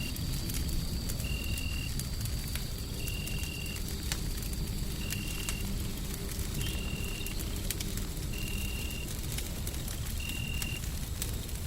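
A layered ambience of a wood fire crackling with scattered sharp pops over a steady, deep white-noise rumble. A short, high tone repeats about every second and a half throughout.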